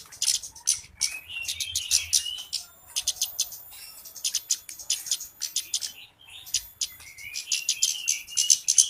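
Flowerpecker calls: fast runs of sharp, high ticking chips, with short twittering phrases about a second in and again near the end, and a brief pause just after the middle.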